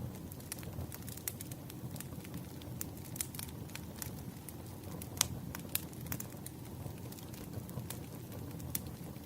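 Burning firewood crackling, with irregular sharp pops over a steady low rumble of the fire; one pop about five seconds in is the loudest.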